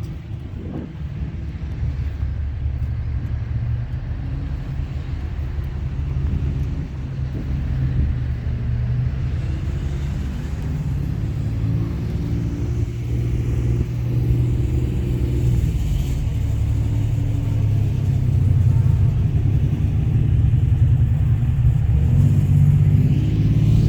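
Truck engine running with a steady low rumble, growing gradually louder.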